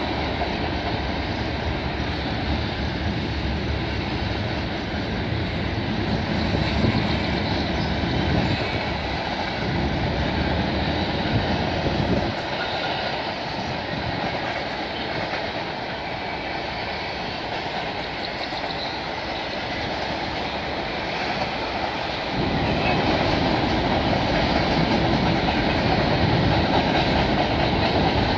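Freight train cars rolling over a steel girder bridge overhead, their wheels clattering steadily. The low rumble thins out for about ten seconds in the middle, then comes back fuller.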